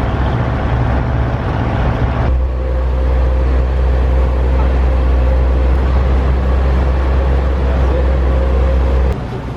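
Boat engine running steadily: a loud, low drone with a faint steady whine above it. The sound changes abruptly about two seconds in and drops away suddenly near the end.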